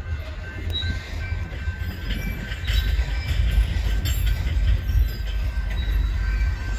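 Freight train of covered hopper cars rolling past: a steady low rumble of steel wheels on the rails with scattered clacks, louder after about two seconds, and a thin high steady tone over it.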